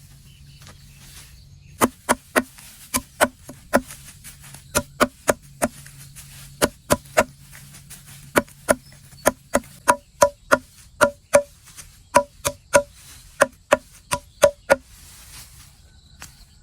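Repeated sharp blows of a tool on wood, about thirty strikes in quick groups of two to four, each with a short woody ring. They start about two seconds in and stop shortly before the end.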